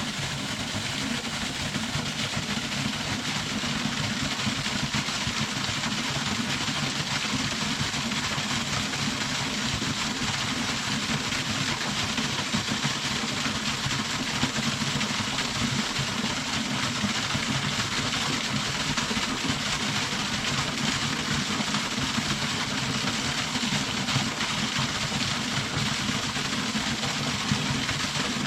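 Small waterfall splashing steadily, its water pouring from a dragon's-mouth spout at the lip of the fall.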